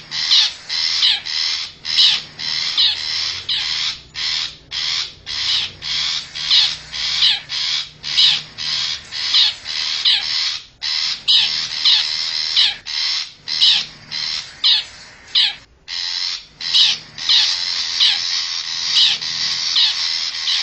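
Long-tailed shrike (cendet) giving a fast series of short, harsh, scratchy calls, about two a second with a brief pause near the end, played as a lure call to draw wild shrikes in.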